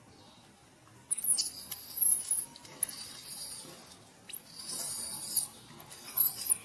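Baby monkey giving shrill distress screams: four very high-pitched squeals, each about a second long, the first starting about a second in.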